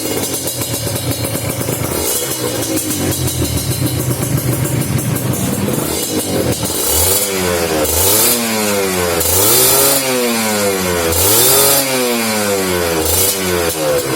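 Motorcycle engine through an aftermarket DM racing exhaust, idling steadily, then revved up and let fall back several times in quick succession from about seven seconds in.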